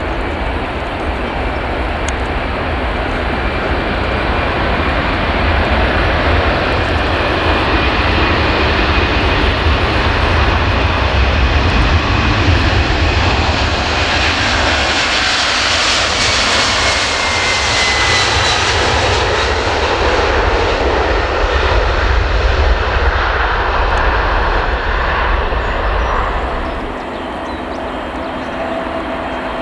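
Boeing 767-300 twin-engine airliner departing under takeoff power, its jet noise building to a peak mid-way and then fading, with a high whine that falls in pitch as it passes. About 27 s in the sound drops off abruptly.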